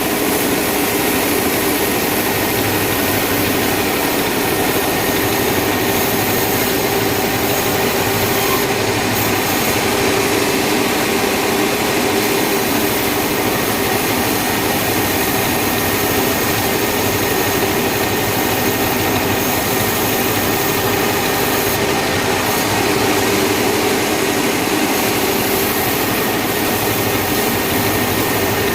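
Sawmill machinery running steadily, a loud constant drone with a few steady hums and no breaks or changes.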